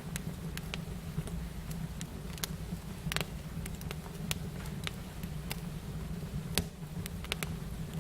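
Wood fire crackling, with irregular sharp pops and snaps over a steady low rumble; a louder pop about three seconds in and another near six and a half seconds.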